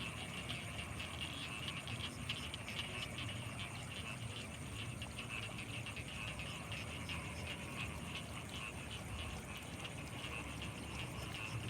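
Night chorus of frogs calling from flooded rice fields, a dense, rapid pulsing with no break, over a steady high insect trill.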